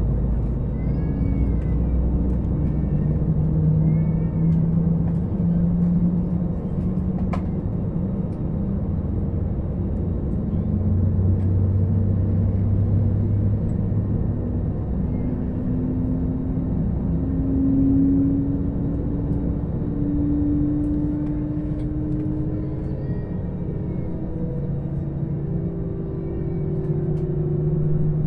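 Jet airliner engines and airframe heard from inside the passenger cabin: a steady low rumble with an engine tone that slowly rises in pitch. A few short, faint high squeaks come in near the start and again later.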